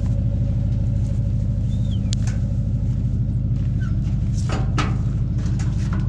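Truck engine idling steadily with an even low pulse, joined by a few short knocks and clanks partway through.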